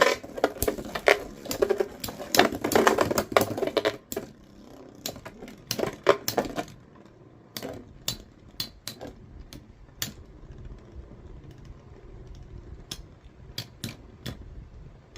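Two Metal Fight Beyblades, Galaxy Pegasus W105R²F and Lightning L-Drago 100HF, clashing as they spin in a plastic Super Vortex stadium. It is a dense, rapid metallic clatter for about the first four seconds, then only scattered clicks and knocks.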